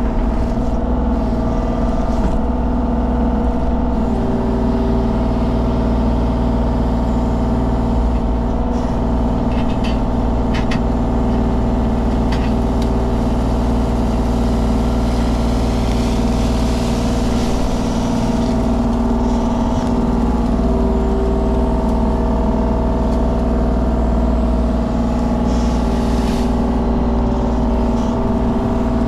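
Mini excavator's diesel engine running steadily under working load, with higher hydraulic tones that come and go as the machine moves, and a few short knocks about ten seconds in.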